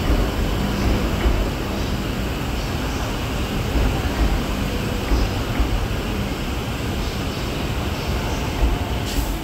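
Steady hum and low rumble of a standing electric sleeper train, the Sunrise Seto (285-series), its onboard equipment running at the platform.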